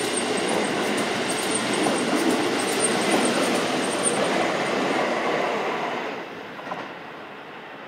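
Keisei 3000-series electric commuter train pulling out of the platform, its cars rolling past close by with a loud, steady rumble of wheels and running gear. About six seconds in the sound falls away to a much quieter background.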